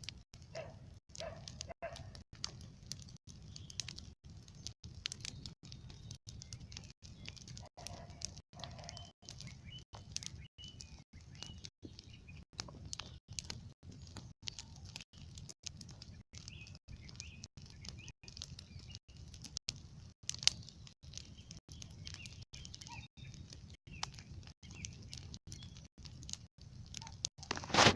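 Small campfire crackling with many irregular pops and snaps, one louder crack near the end. Faint bird chirps in the background.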